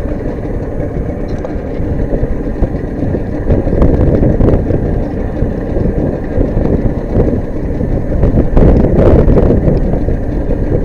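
Wind buffeting the microphone over the rumble of a small fishing boat under way, swelling louder about a third of the way in and again near the end.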